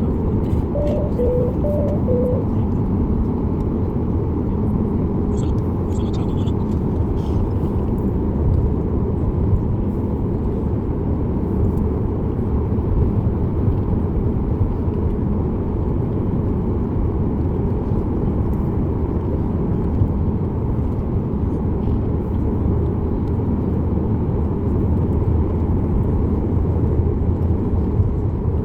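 Steady cabin noise of a Boeing 737 MAX 8: an even, unbroken rumble of its engines and the air rushing past, heard from a seat inside the cabin.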